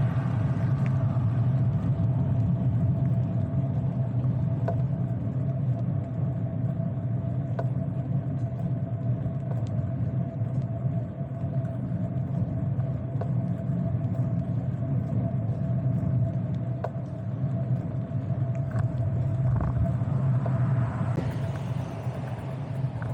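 Steady low rumble of road and wind noise while cycling, with a constant higher hum and a few faint ticks.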